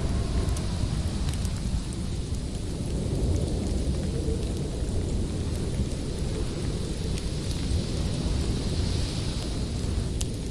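Howling wind rumbling steadily in a snowstorm, with the scattered sharp pops and crackles of a wood fire over it; a hissing gust swells about nine seconds in.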